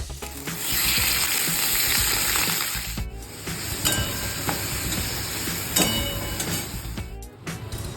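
Food frying in hot oil in a pan: a steady sizzle that breaks off briefly about three seconds in and again near the end.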